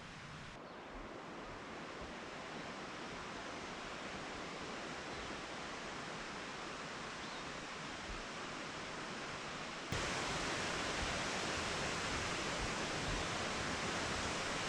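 Steady rush of the Graveyard Fields Lower Falls waterfall, slowly growing louder, then jumping up suddenly about ten seconds in and holding at the louder level.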